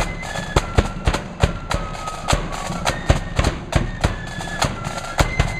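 Marching flute band playing: a tune on the flutes over rapid, cracking snare drum strokes and bass drum beats.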